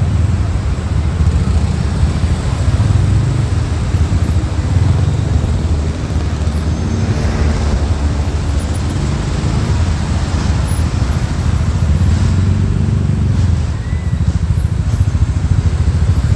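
Motorcycle riding in traffic: steady engine and road noise under a heavy, fluctuating low rumble.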